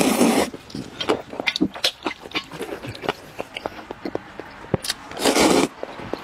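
Close-miked eating sounds: many short wet clicks and smacks of chewing and utensils, with two loud slurping bursts, one right at the start and one about five seconds in.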